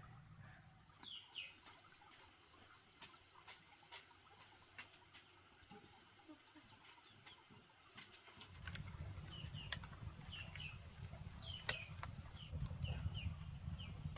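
Outdoor farm ambience: short, high, downward bird chirps, several in quick succession in the second half, over a steady high-pitched whine. A low rumble comes in after about eight seconds.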